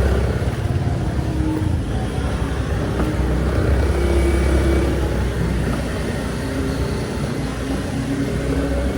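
Road traffic passing close by: vehicle engines running in a steady low rumble, with engine pitches shifting as vehicles go past.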